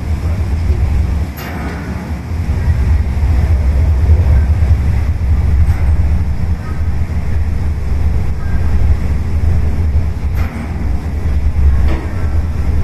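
Sakurajima ferry's engines and propellers running with a loud, steady low rumble as the ship berths, with a few short knocks.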